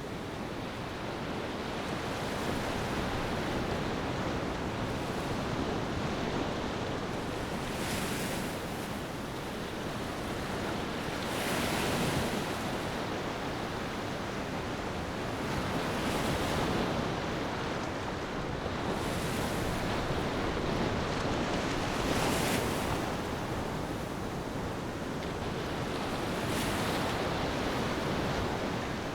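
Ocean waves breaking and washing up a beach, surging every four to six seconds.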